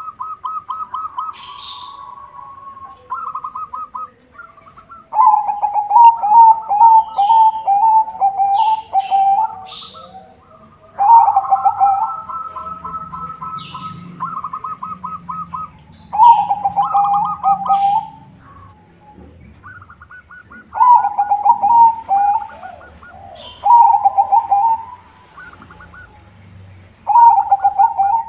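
White zebra dove (perkutut) singing: repeated phrases of rapid, rippling staccato coos, each lasting one to two seconds, with short pauses between them. Faint high chirps from other small birds come in now and then.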